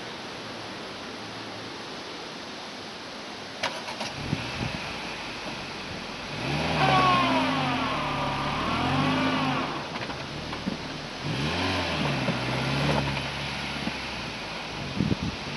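Renault Duster's engine revving up and down while the car is stuck in deep sand, its front wheels spinning and throwing sand. After a sharp click just before four seconds in, the revs swing up and down through two loud spells, the first and louder from about six to ten seconds in, the second around eleven to thirteen, then drop back.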